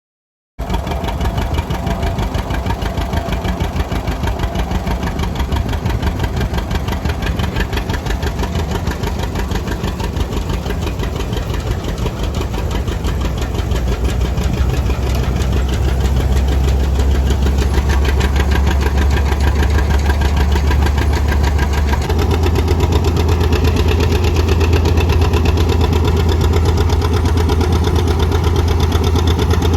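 John Deere 730 two-cylinder diesel tractor engine running steadily with an even, rapid beat of firing pulses. It cuts in abruptly just after the start, and its low note shifts slightly about two-thirds of the way through.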